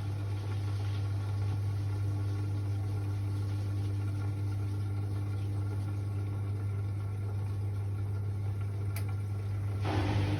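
Hoover washing machine running mid-way through its 14-minute quick wash, a steady low hum. There is a single tick about nine seconds in, and near the end the machine gets louder and rougher as the drum starts moving again.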